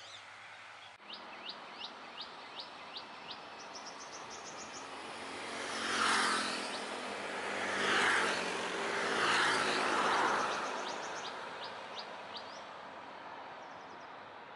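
Small birds chirping: a run of short, quick downward chirps about three a second, then a fast high trill, with more chirps near the end. Through the middle, three broad swells of rushing noise rise and fall, the loudest sounds here.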